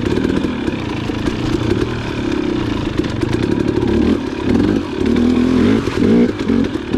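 Dirt bike engine revving up and down while riding a trail, its pitch rising and falling with the throttle, over a background of clatter.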